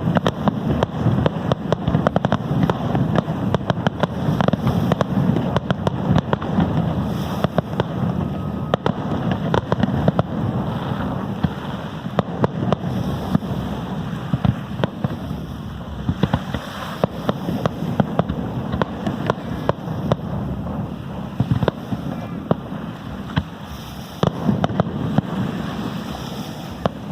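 Fireworks display: a dense, continuous run of sharp bangs and crackles over a steady low rumble.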